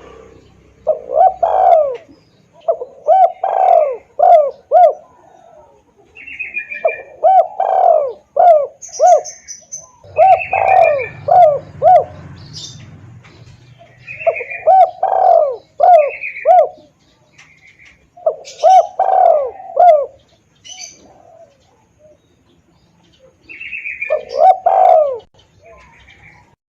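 Spotted dove (tekukur) cooing: a lure call, about seven phrases a few seconds apart, each a quick run of rising and falling coos, with short higher-pitched chirps in between.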